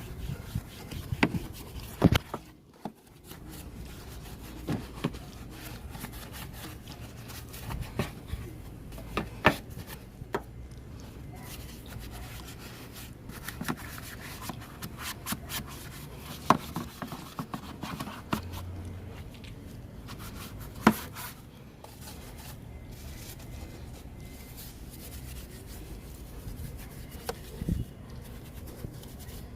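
Hand rubbing and scrubbing of engine-bay surfaces during detailing, with irregular sharp taps and knocks scattered through it over a low steady hum.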